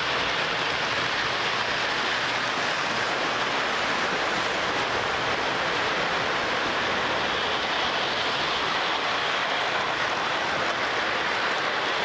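Lionel O gauge D&H U36C diesel locomotive with its Pullmor motor running on the layout's track: a steady, even rush of motor and wheels on rail that holds at one level throughout.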